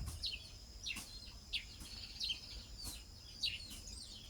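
Bird chicks chirping: short high chirps that slide downward, repeated about every half second, over a faint steady high tone. A sharp click at the very start.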